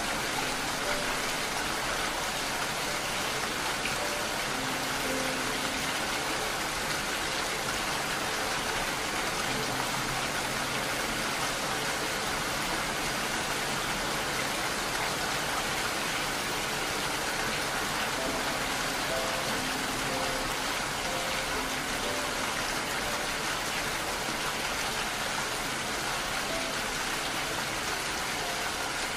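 Steady heavy rain, a dense even hiss, with a few soft sustained music notes faintly underneath.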